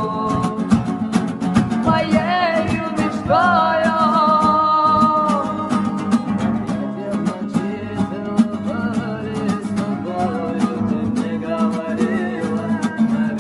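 Acoustic guitar strummed fast in a flamenco-like rhythm, with a voice singing the song's melody and holding one long wavering note a few seconds in.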